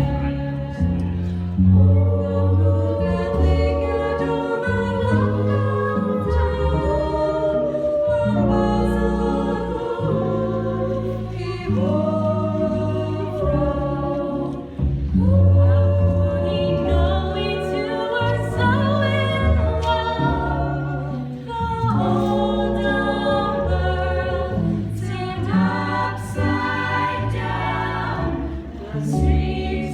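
Vocal jazz ensemble singing a close-harmony arrangement, several voices holding chords that change every second or two.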